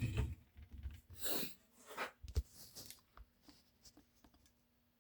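Handling noises: a brief brushing scrape about a second in, a single dull knock, then a few faint taps as objects are moved and set down.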